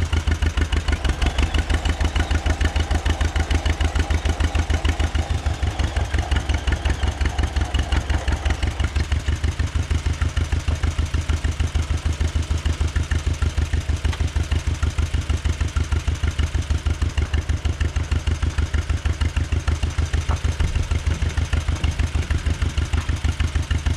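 Tractor engine idling with an even, steady pulsing beat.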